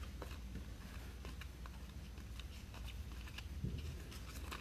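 Faint, scattered clicks and rustles of trading cards being handled and flipped through, over a low steady room hum.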